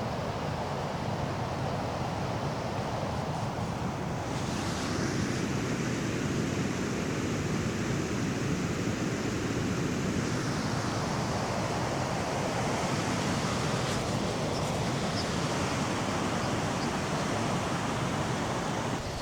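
Steady rushing noise of falling water, turning brighter and hissier about four seconds in.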